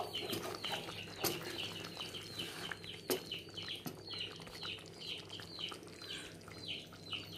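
Small birds chirping over and over, short falling chirps several times a second, over a low steady hum, with two sharp knocks about a second and three seconds in.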